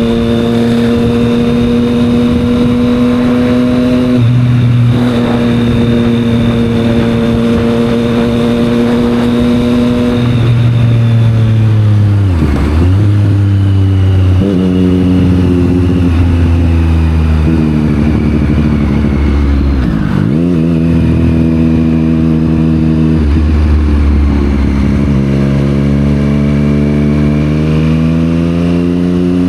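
Triumph Street Triple 765 R's three-cylinder engine running through a Yoshimura aftermarket exhaust while ridden, its pitch holding steady, then stepping between gears. The pitch falls away sharply as the bike slows about twelve seconds in and again around twenty, then rises as it accelerates near the end.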